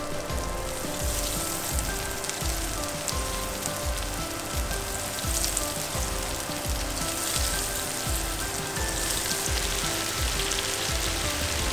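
Breadcrumb-coated grouper fillets shallow-frying in hot oil in a skillet, a steady dense sizzle and crackle. It sounds over background music with a steady beat.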